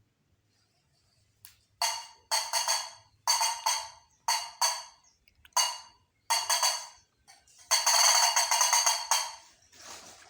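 Hand percussion struck and shaken in an uneven rhythm: about eight bright, jingling strokes that each ring and fade, with one longer stroke near the end.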